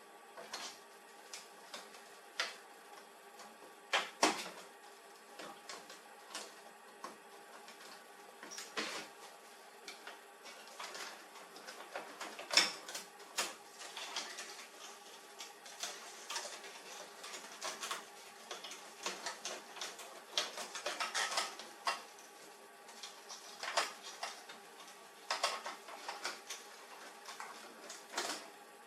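Irregular clicks and knocks of plastic and metal laser-printer parts being handled during disassembly, over a faint steady hum.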